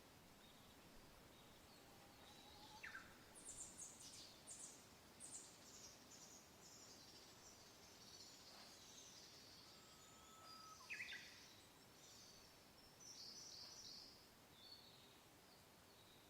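Faint outdoor ambience of wild birds chirping and trilling, with quick high chirps in a cluster a few seconds in, a short level whistle later on, and another burst of calls near the end, over a soft steady hiss of gentle wind.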